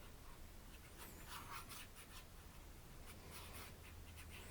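Faint scratchy swishes of a paintbrush stroking and dabbing acrylic paint on the painting, several soft strokes over a low steady hum.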